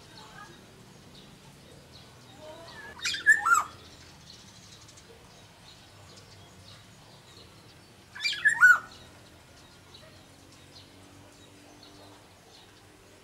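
Black-naped oriole (kepodang) calling: two loud, short calls about five seconds apart, each a quick cluster of falling notes.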